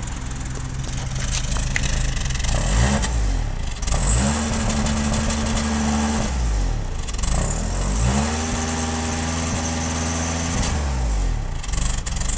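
Toyota Camry engine idling, then revved twice, each rev held for about two seconds before dropping back to idle. The owner takes the engine's running for a misfire.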